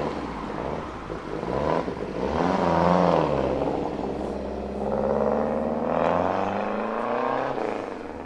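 Turbocharged four-cylinder rally-style car accelerating hard. The engine note climbs, drops at a gear change about three seconds in, climbs again, then falls away near the end.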